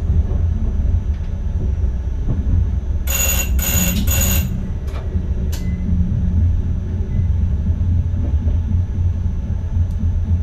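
Cab of an NS ICM electric train with a steady low rumble of the train running on the rails. About three seconds in, three short ringing tones sound close together from inside the cab.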